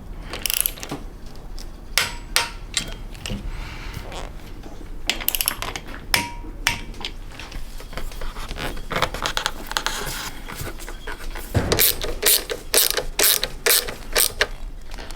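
Ratchet torque wrench being worked on a bolt, its pawl clicking in runs of sharp clicks, with a run of louder clicks near the end.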